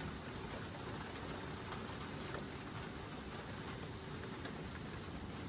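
Steady rain falling on the street and surroundings: a continuous even hiss with scattered single drop ticks.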